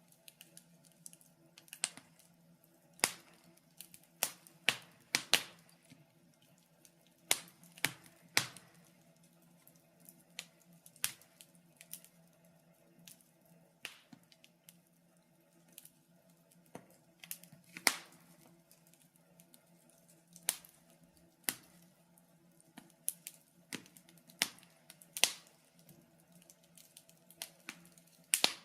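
Wood fire burning in a fireplace, crackling with irregular sharp pops and snaps, some in quick clusters and others a second or more apart, over a faint steady low background.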